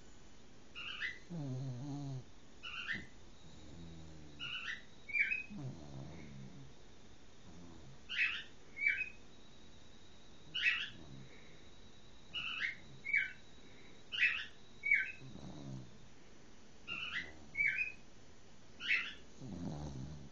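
Cocker spaniel snoring: a low snore every few seconds. Along with it come short high chirps, often two close together, which are the loudest sounds.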